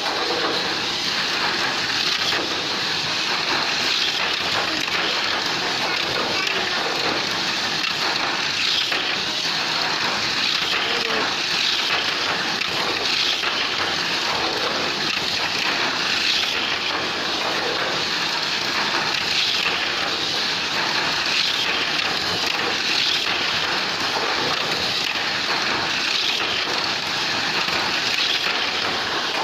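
Tamiya Mini 4WD toy race cars running around a plastic track: a steady, high buzzing whirr of small electric motors and rattling wheels, swelling about every two seconds as a car passes.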